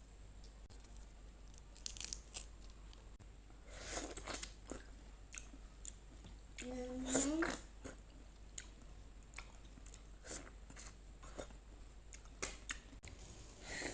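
A person chewing and biting food close to the microphone, with many small, irregular crunches. A brief rising vocal sound comes about seven seconds in.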